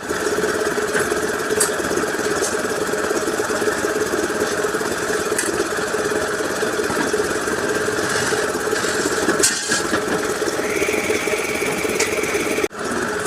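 A motor running steadily, with a constant drone and a few faint clicks.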